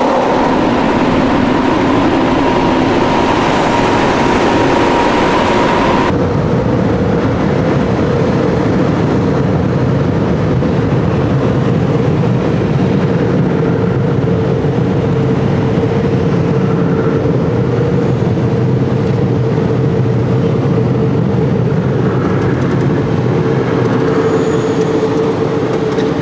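Automatic tunnel car wash machinery running around the car, a loud steady rush of noise. About six seconds in it changes abruptly to a duller, lower-pitched rush with a steady hum through it.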